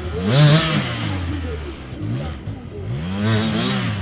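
Dirt bike engine revving hard in two bursts, about half a second in and again near the end, dropping to a lower run between them.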